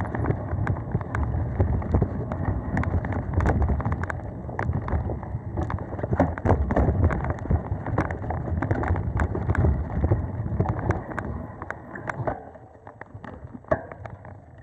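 Mountain bike riding over a dirt singletrack: tyre rumble and wind buffeting the microphone, with frequent clicks and rattles from the bike over bumps. It gets quieter about twelve seconds in as the ride eases.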